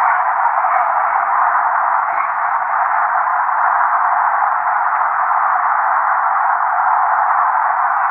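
Steady, loud static-like hiss, confined to the middle range with no low or high end, unchanging in level throughout.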